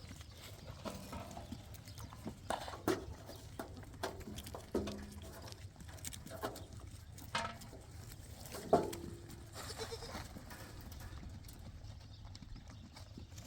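Flock livestock bleating: about seven short, separate bleats spread over several seconds, the loudest about nine seconds in.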